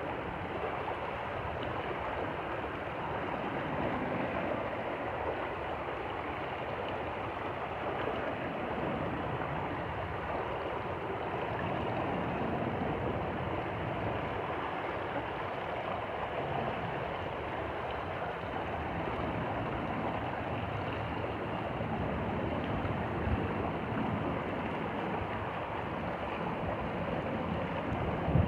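Stream flowing steadily: a continuous, even rush of water.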